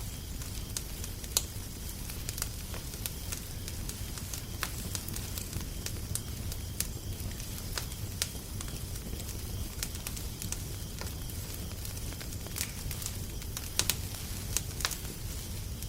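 Wood fire crackling: irregular sharp pops and snaps over a steady low rumble and hiss, a few louder pops about a second in and near the end.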